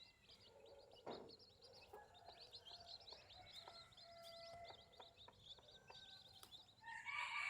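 Faint, rapid chirping of small birds or chicks, with a few short clucking tones from chickens. A rooster starts crowing near the end.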